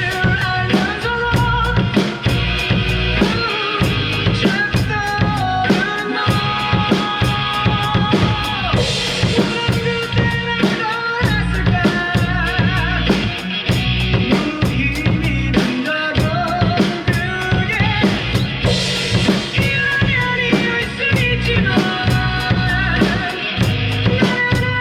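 Drum kit played along to a song with a singer: kick, snare and cymbal strikes in a steady beat over the recorded music.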